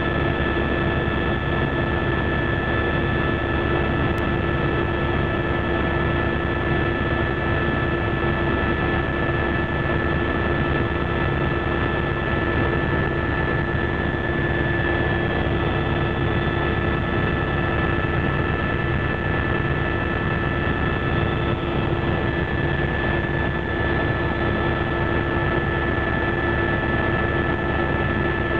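Helicopter in steady flight heard from inside the cabin: a constant drone of engine and rotor noise with several steady whining tones over it, unchanging throughout.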